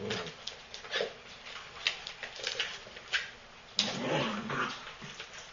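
Havanese puppies play-scuffling with a small toy: scattered light clicks and rustles, with a short puppy vocal sound about four seconds in.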